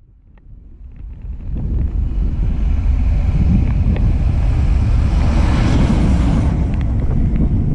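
A train approaching and running past close by: a deep rumbling noise that grows louder over the first two or three seconds, then holds steady.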